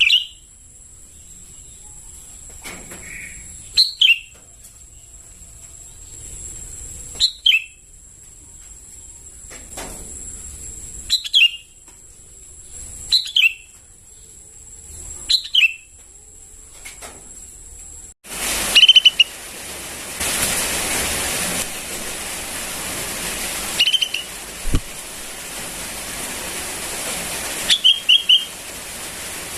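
Young sooty-headed bulbul calling: short, sharp notes that fall in pitch, repeated every couple of seconds. A steady high-pitched whine sits behind the first two-thirds, then cuts off and gives way to a steady hiss.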